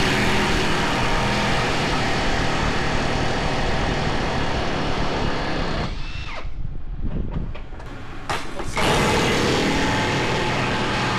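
Power tool running in two long stretches, breaking off for about two seconds near the middle.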